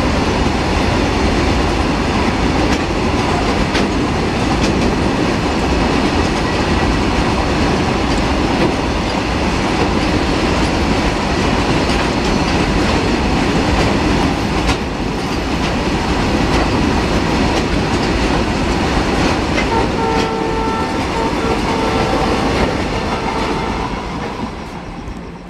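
Freight train of covered goods wagons rolling past on a curve, the wheels clattering over the rail joints. A few short, steady tones sound about twenty seconds in, and the sound dies away near the end.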